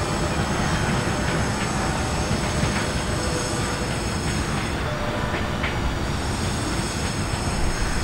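Indian Railways passenger train running along the track away from the listener: a steady rumble of coach wheels on rail.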